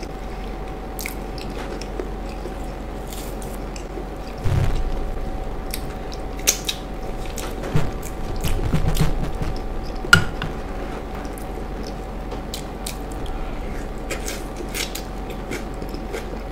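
Close-miked eating: chewing and biting into soft, wet food, with smacking mouth clicks throughout. A few louder pops and thumps, the sharpest about ten seconds in.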